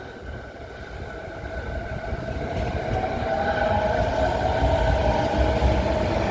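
JR East 209 series 500-subseries electric train pulling away, its MT68 traction motors whining in a tone that rises slowly in pitch as it accelerates, growing louder over a low rumble of the running gear.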